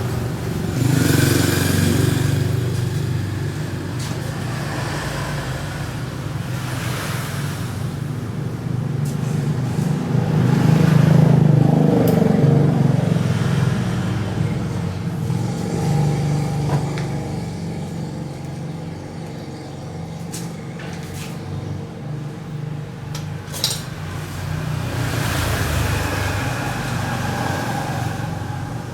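Road traffic: vehicle engines running past, the sound swelling and fading several times, with a few sharp clicks about three-quarters of the way through.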